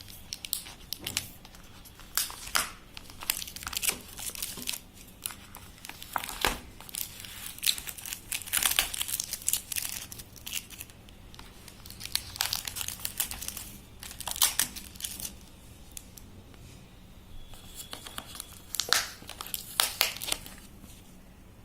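Takeaway food packaging being opened by hand: crinkling, rustling and tearing in irregular bursts, with a quieter pause about two-thirds of the way through.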